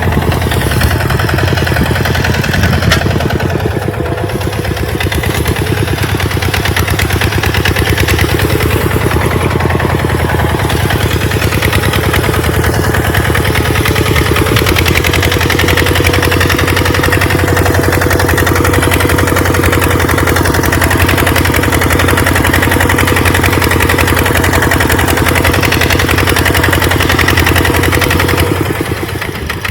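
Tractor engine running steadily under load while plowing in sand, dipping briefly around four seconds in and again near the end.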